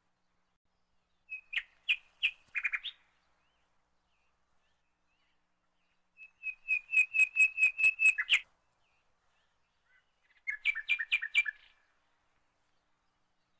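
A small bird chirping in three short bouts of quick, repeated high notes, each lasting a second or two and a few seconds apart. The middle bout is the longest and loudest, about ten notes in a row.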